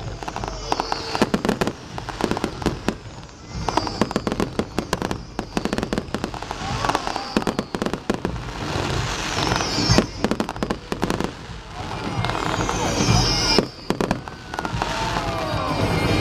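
Aerial fireworks going off: a dense run of bangs and crackling, with high whistling glides every few seconds.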